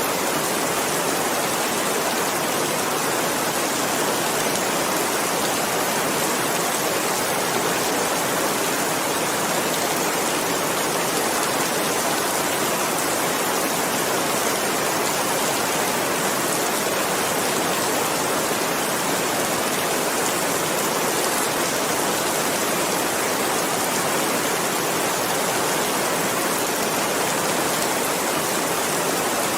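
Steady, dense rainfall: an even hiss of many drops with no pauses or distinct splashes.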